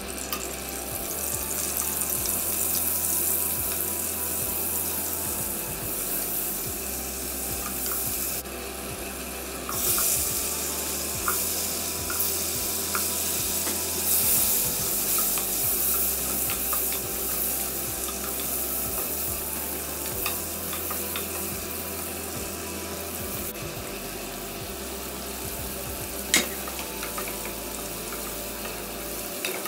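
Oil and butter sizzling in a nonstick pot as baby corn and then sliced mushrooms are stir-fried, with a spatula scraping and tapping against the pan. A sharp knock of the spatula on the pot comes near the end.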